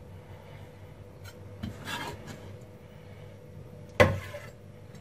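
Faint scraping and rubbing on a cutting board as the cut garlic is handled, with a louder scrape about two seconds in and one sharp knock about four seconds in.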